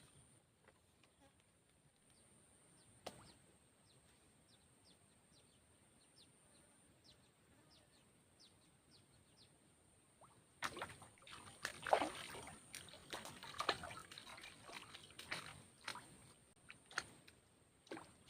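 Water sloshing and splashing in irregular bursts, starting about ten seconds in. Before that there is only faint quiet, with soft, repeated high chirps about twice a second.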